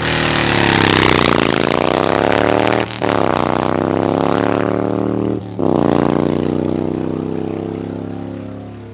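Motorcycle engine accelerating through the gears: the revs climb, drop at two upshifts about three seconds and five and a half seconds in, climb again, and the sound fades as the bike pulls away.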